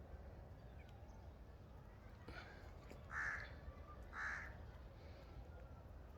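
A bird giving two loud, harsh, caw-like calls about a second apart, with a fainter call just before them.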